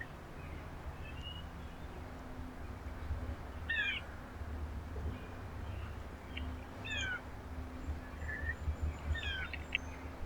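Small birds chirping: short falling notes in three brief clusters, about four, seven and nine seconds in, over a low steady rumble.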